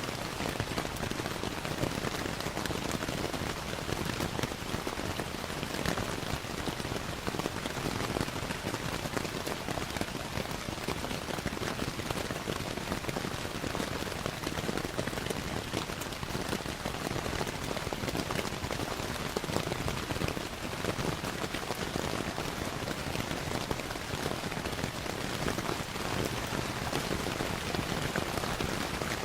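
Steady rainfall mixed with the crackle of a fireplace, an even hiss of rain dotted with small clicks and pops.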